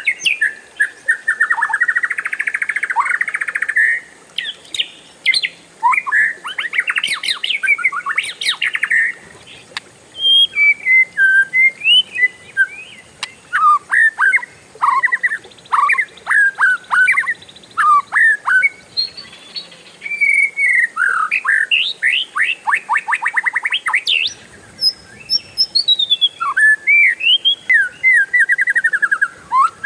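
Oriental magpie-robin singing a loud, varied song of whistled, sliding phrases and rapid rolling trills, with short pauses between bursts.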